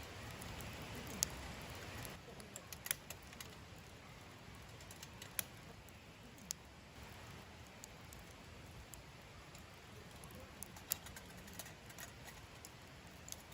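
Wood fire crackling: irregular sharp pops and ticks over a low hiss.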